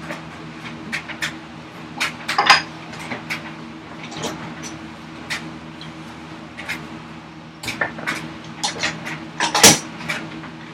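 Hand tools working a block of ash: irregular light clicks and taps of steel on wood, with a sharper knock about nine and a half seconds in.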